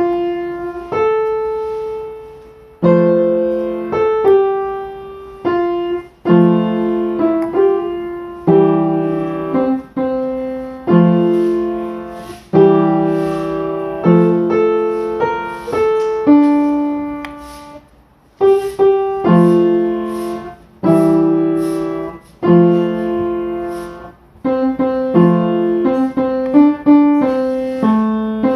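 Solo piano music: slow phrases of struck chords that ring and die away, with a brief pause about eighteen seconds in.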